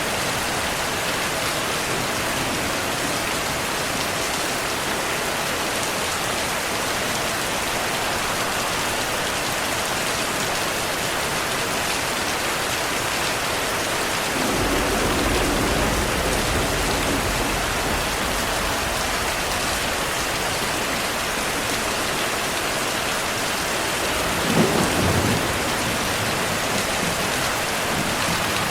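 Steady heavy rain with thunder: a low roll of thunder about halfway through, and a shorter, louder thunderclap near the end.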